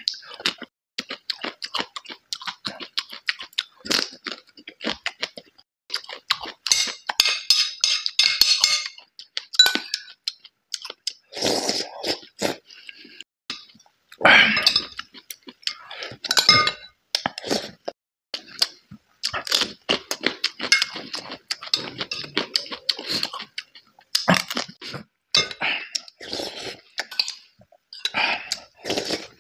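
Close-up eating sounds: a man chewing and crunching mouthfuls of rice and fresh green chili peppers, with wet mouth noises, and a metal spoon clinking and scraping against a ceramic bowl and plate.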